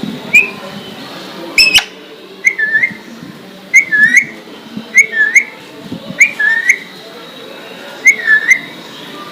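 Alexandrine parrot whistling a short dipping-then-rising note over and over, about once a second.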